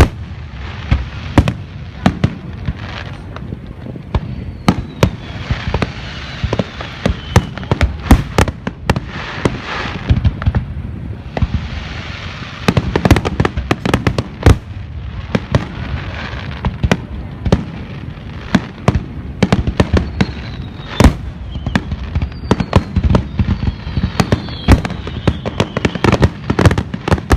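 Fireworks going off: a dense, continuous run of sharp bangs over a steady crackling rumble, with a few falling whistles now and then.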